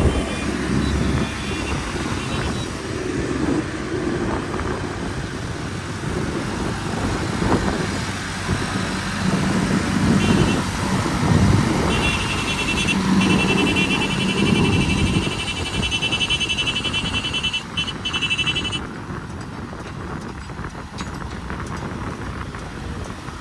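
A heavy vehicle's engine running with a steady rumble. From about ten seconds in, a high, rapidly pulsing tone sounds for several seconds and then stops.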